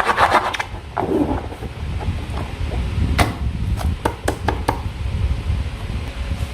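Quick rubbing strokes that stop about half a second in, then a few scattered sharp clicks and taps over a low rumble.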